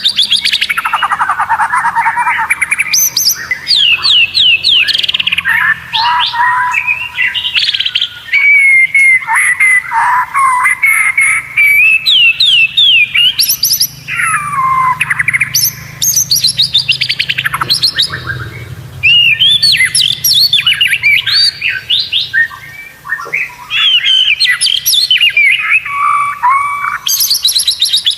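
White-rumped shama (murai batu) in full, loud song: a near-continuous run of fast, varied phrases of sweeping whistles and rapid trills, with a couple of brief pauses.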